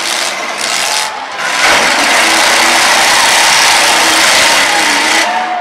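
Demolition derby stock car engine revved hard at full throttle. It jumps up loud about one and a half seconds in, holds steady, and cuts off suddenly near the end.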